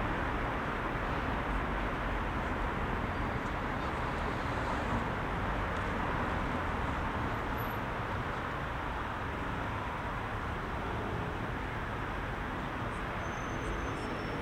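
Dense rush-hour road traffic: a steady wash of engine and tyre noise from many cars, with no single vehicle standing out.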